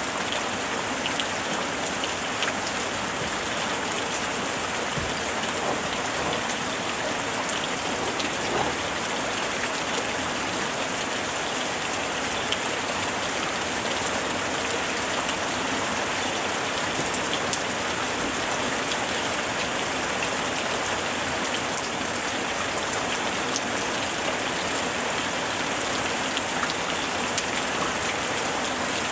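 Steady heavy rain falling and pattering on surfaces, a dense even hiss with many small drop ticks scattered through it.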